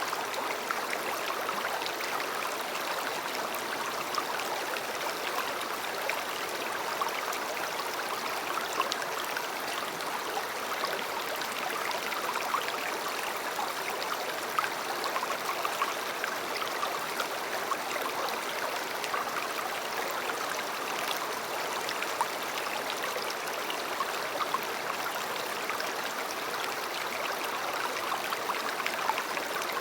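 A river flowing steadily: an even rushing of water, dotted with many small splashes.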